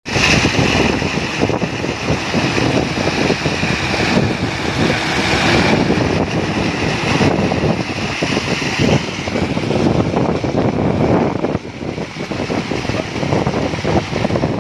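Concrete mixer truck's engine running steadily, with a high whine that fades out about nine seconds in.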